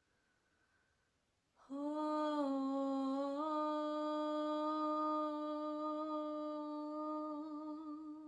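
A woman's voice humming one long held note, entering after a brief silence. The pitch rises slightly about a third of the way in and then holds steady.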